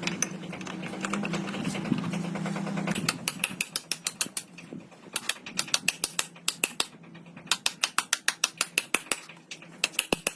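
A steady low hum for about three seconds, then runs of rapid, evenly spaced mechanical clicks, several a second, with a short break in the middle.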